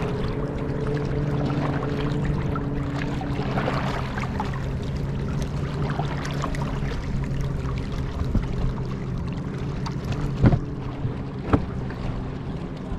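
A kayak moving across the lake: water and wind noise over a steady low motor hum, with a few sharp knocks against the hull, the loudest about ten and eleven and a half seconds in.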